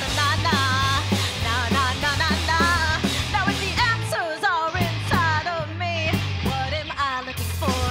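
Live rock band playing an instrumental passage: a lead line of bending, sliding notes over steady bass and drums.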